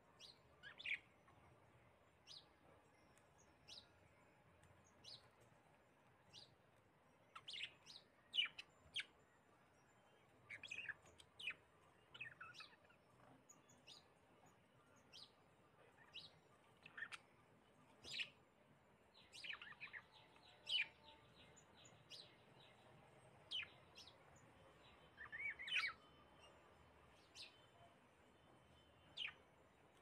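Birds chirping: short, high chirps that slide downward, scattered irregularly, one every second or two, with quick clusters of several now and then.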